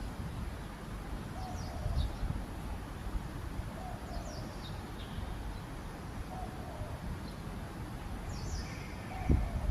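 A bird calling: short high chirps repeated every two to three seconds, with fainter lower notes, over a steady low rumble.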